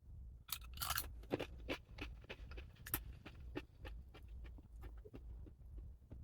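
Close-up crunchy chewing and biting: a fast run of crisp crunches starting about half a second in, densest over the first few seconds, then thinning out.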